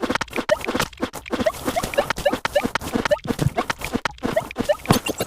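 Rubber balloon being handled: rapid scratching and rustling, with short rubbery squeaks several times a second.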